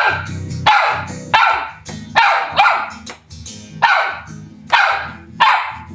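A dog barking over and over in high-pitched, falling yelps, about one every three-quarters of a second, over background music.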